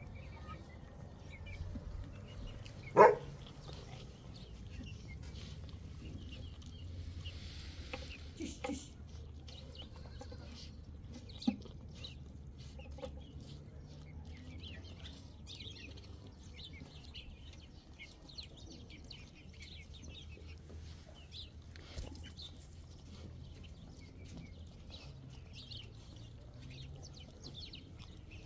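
Birds calling: many short high chirps throughout, with one brief loud call about three seconds in, over a low steady rumble.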